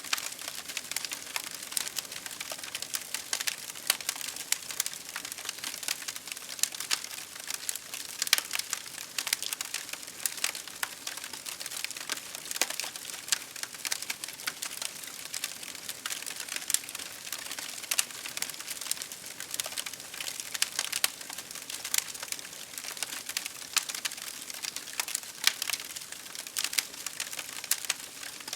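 Wood campfire crackling and popping in many irregular small snaps, over a steady hiss of rain.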